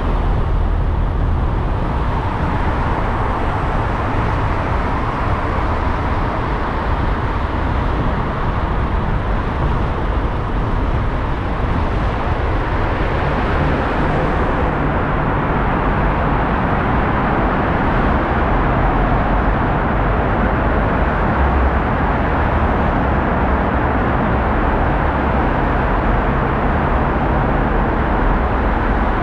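Steady road noise of a car driving in city traffic: tyre and engine hum with no sudden events.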